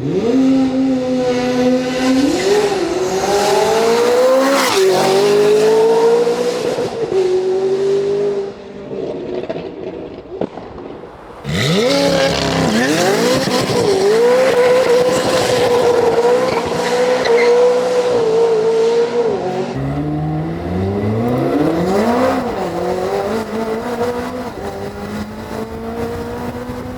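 McLaren 570S/620R twin-turbo V8 running through a Valvetronic Designs valved full exhaust, held at high revs with tyres squealing. About a third of the way in it falls quiet briefly, then revs sharply up again, holds, drops back and climbs once more near the end.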